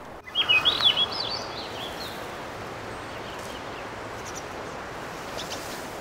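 A songbird sings one short warbling phrase of quick high notes about half a second in, lasting about a second and a half, over a steady background hiss.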